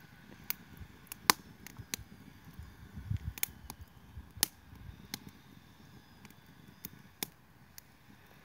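Campfire burning in a fire pit: about a dozen sharp, irregular crackles and pops over a faint low rumble.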